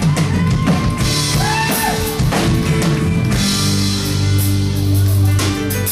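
Live country band playing the instrumental intro of a song: a drum kit keeping a steady beat under guitars and bass.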